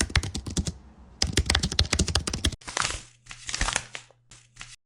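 Rapid, typing-like clicking in two quick runs with a short gap between them. From the middle on, it gives way to a few noisier, hazier bursts over a steady low hum.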